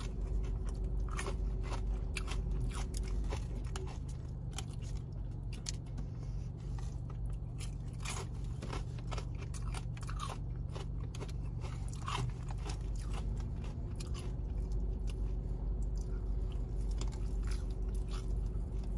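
Close-up chewing of crispy fried chicken: irregular sharp crunches of the breading between quieter wet chewing, over a steady low hum.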